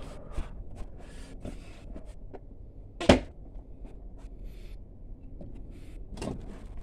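Hands digging through soil in a potato grow bucket, with scattered short rustles and clicks and one sharp knock about three seconds in.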